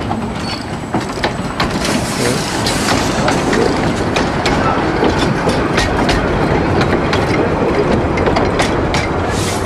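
Narrow-gauge passenger train rolling past close by: a steady rumble of the open coaches with irregular sharp clicks of their wheels over the rail joints.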